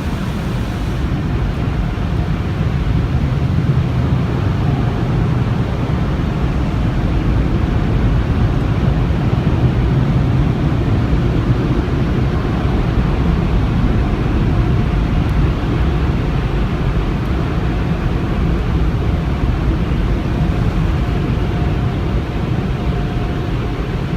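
Steady, loud low rumble of automatic car wash equipment running, heard from inside a car going through the tunnel, with a faint hum that comes and goes in the second half.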